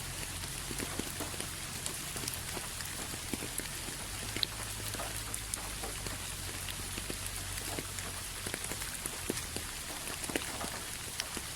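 Steady rain falling, an even hiss with scattered distinct drips and drops hitting a surface, over a low steady rumble.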